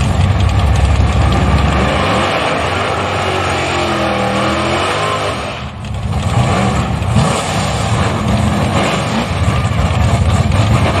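Loud drag-racing engine running hard, with its pitch arching up and down about two to five seconds in and a brief drop in level near the middle.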